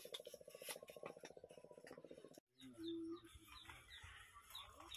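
Faint outdoor sounds. A fast, even pulsing buzz cuts off about halfway through, then a few short bird chirps, each falling in pitch.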